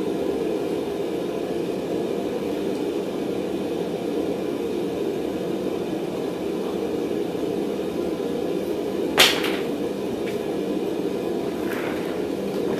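Blacksmith's forge running with a steady rumbling rush, and a single sharp knock about nine seconds in.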